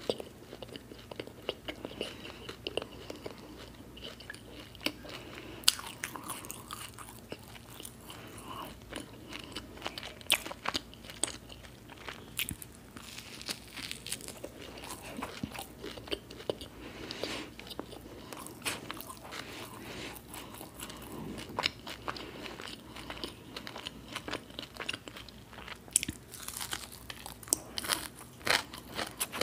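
Close-miked mouth sounds of a person eating crisp fried onion bhajiya and toasted bread: bites and chewing with irregular crisp crunches throughout, coming thicker near the end.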